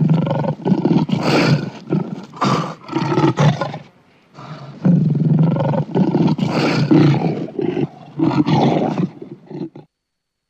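Lion roaring in two bouts of repeated low calls, with a short break about four seconds in; the sound cuts off abruptly shortly before the end.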